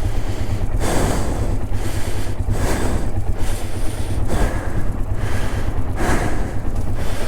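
A person breathing hard, a soft breath swelling about once a second, over a steady low rumble.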